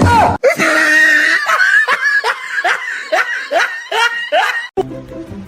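A person laughing hard in a run of short rising 'ha' pulses, about two or three a second, for about four seconds; music picks up again near the end.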